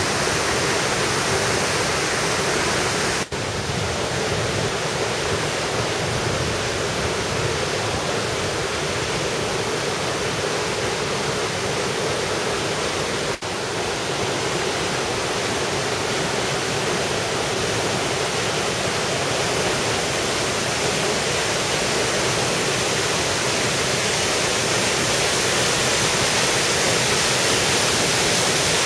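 Steady rush of water from a mountain valley stream, an even unbroken roar, with two momentary dropouts about three and thirteen seconds in.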